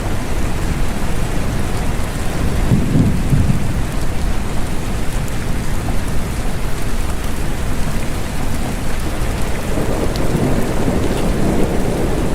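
Steady rain falling, with low rolls of thunder that swell about three seconds in and again near the end.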